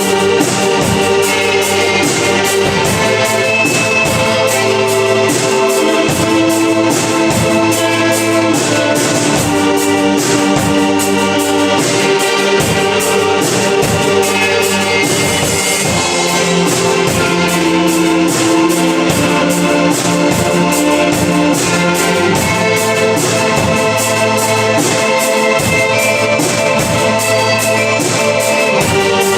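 A band playing live, an instrumental passage: a melody of held notes over a steady, fast beat.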